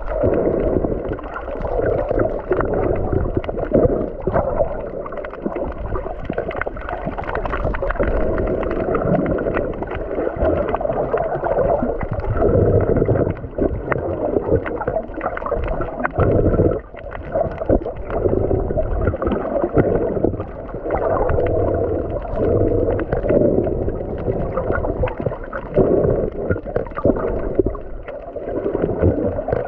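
Muffled underwater noise of water moving and gurgling around a submerged camera, rising and falling irregularly.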